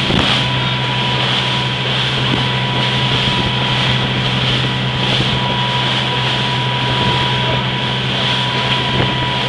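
Motorboat engine running at a steady pace, a constant low hum under loud rushing wind on the microphone and water noise.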